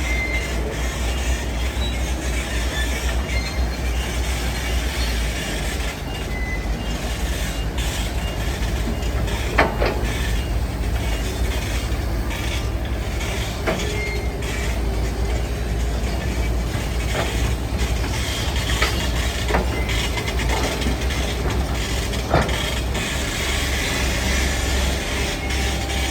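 Heavy earthmoving machinery at work: a diesel engine running steadily under a low rumble, with metallic clanking and a few sharp knocks scattered through.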